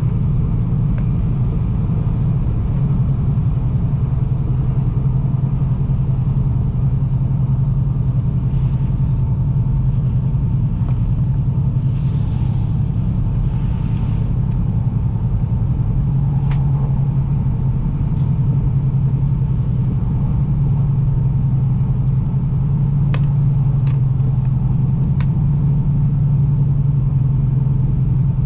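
Joetsu Shinkansen train running, heard from inside the passenger car: a steady low rumble of wheels and running gear, with a few faint clicks in the second half.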